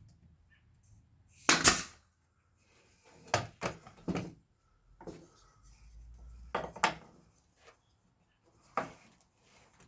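A series of sharp wooden knocks and clacks as frame boards and tools are handled on a workbench, the loudest about a second and a half in, with a few more spread through the rest.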